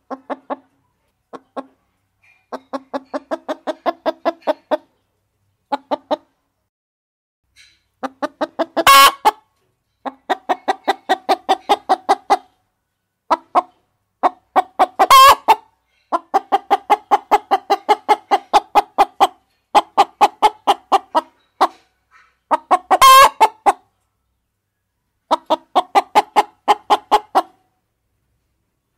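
Hens clucking in quick runs of short, even notes, separated by silent pauses, with a much louder squawk three times: about nine, fifteen and twenty-three seconds in.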